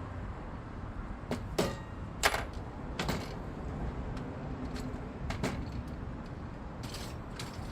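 Metal gate hardware being worked by hand: a scattering of sharp clicks and clanks, the loudest two about a second and a half and two seconds in, over a steady low outdoor rumble.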